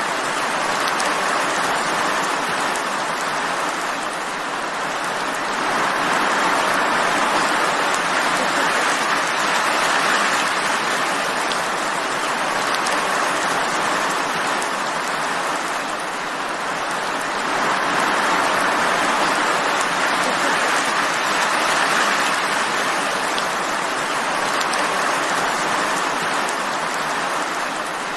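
Steady, heavy rain falling: a dense, even hiss that slowly swells and eases every ten seconds or so.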